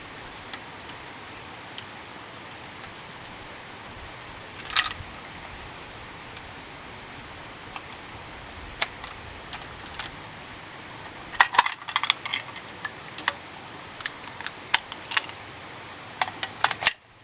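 Small sharp clicks and rattles of handling a bolt-action rifle at the bench, clustered over the last six seconds, with one brief noise about five seconds in. A steady hiss lies underneath.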